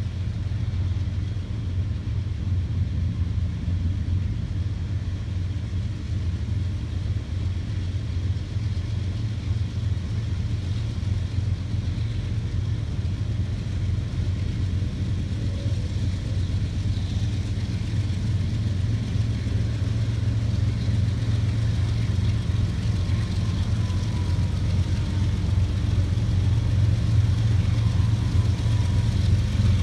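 Freight train of ethanol tank cars rolling slowly past, a steady low rumble that grows slowly louder.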